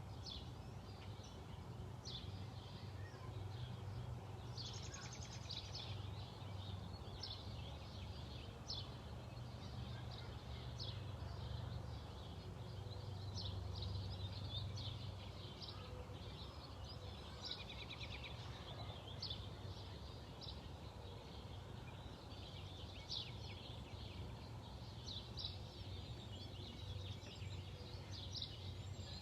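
Songbirds chirping and calling outdoors: many short high calls scattered throughout, with a longer trill about five seconds in, over a steady low rumble.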